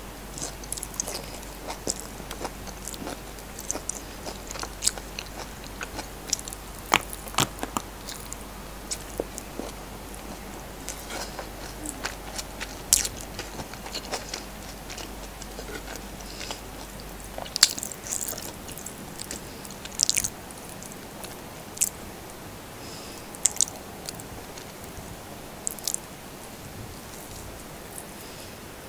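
Eating sounds: biting into okra and chewing okra, fried rice and corned beef, with irregular sharp crunches and mouth clicks.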